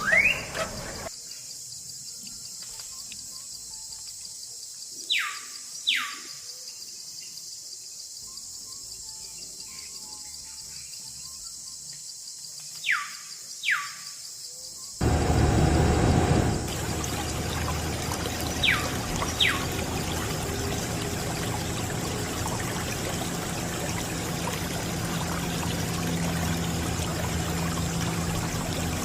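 A small DIY water pump starts about halfway in, and water pours steadily with a low motor hum beneath it. Before and during it there is a steady high hiss and a few pairs of short falling whistles.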